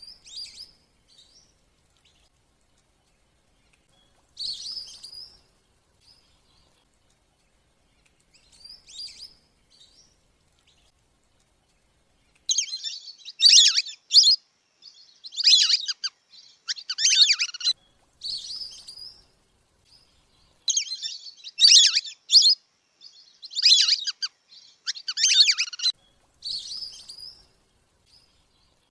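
Garganey duck calls from a lure recording used to call the ducks down to land. A few short, fainter calls come in the first twelve seconds, then a run of loud calls follows about one to two seconds apart until near the end.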